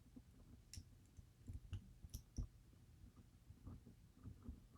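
Faint, irregular small clicks of tiny metal lock parts, key pins and a master wafer from a disassembled DOM IX Twinstar plug, being handled with tools.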